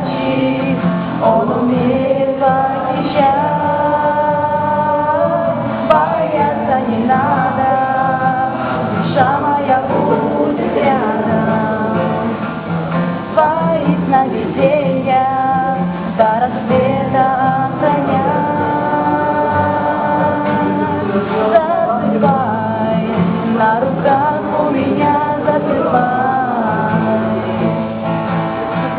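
A song sung by female and male voices together, with a plucked guitar accompaniment.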